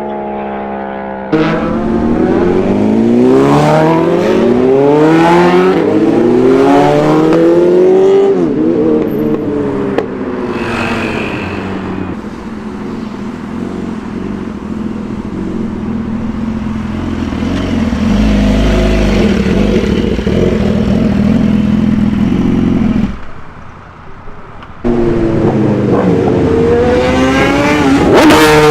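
Superbike engines revving hard under acceleration, pitch climbing and dropping again with each gear change, then a steadier drone and more climbing revs near the end. The sound changes suddenly twice, as at cuts between separate passes.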